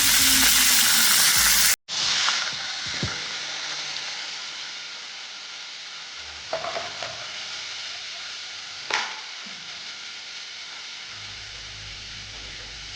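Fish frying in hot oil in a pot: a steady sizzle that cuts off abruptly about two seconds in and comes back quieter, with a few light knocks.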